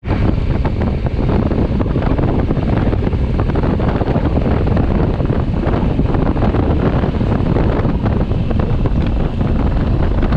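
Heavy wind buffeting on the microphone of a motorcycle under way, with a low engine drone from the 2020 Honda Africa Twin underneath.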